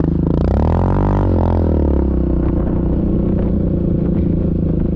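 Yamaha Grizzly ATV engine revving up briefly and easing back down about two seconds in, then running steadily.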